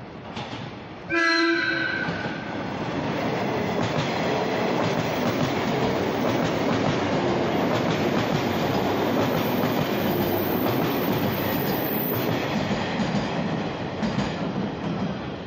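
JR 185 series electric train sounding its horn once, a short blast of about a second, then the steady noise of the train running past alongside the platform.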